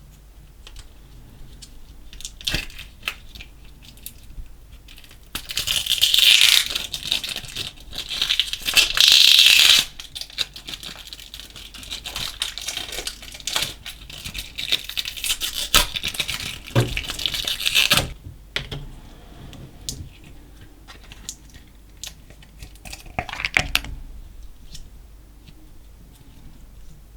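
Hands working slime mixed with small coloured beads: sticky crackles, small pops and clicks. A few seconds in come two louder stretches of hissing crackle, and the crackling thins out about two-thirds of the way through.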